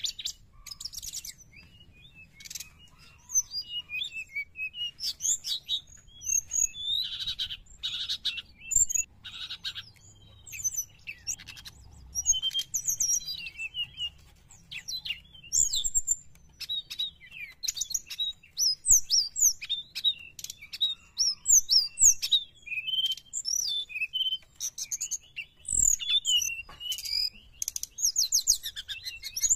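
Brown-chested jungle flycatcher singing continuously: a busy stream of high whistled phrases, short chirps and rapid trills with brief pauses between them.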